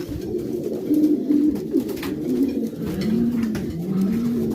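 Several racing pigeons cooing at once in a loft, overlapping low rounded coos with some rising-and-falling calls.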